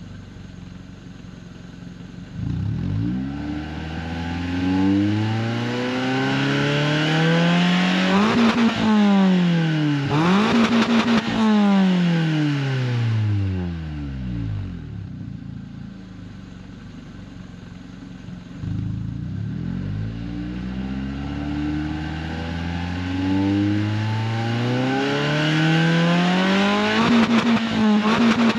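Renault Twingo RS Gordini's 1.6-litre four-cylinder engine, warm, revved through an aftermarket Inoxcar 80 mm stainless steel exhaust while standing still. Twice it climbs slowly from idle, is held high for a few seconds with a brief dip, and then drops back to idle.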